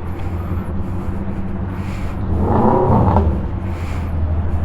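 Vehicle engine running steadily at a low pitch, with a brief rev that rises and falls about two and a half seconds in.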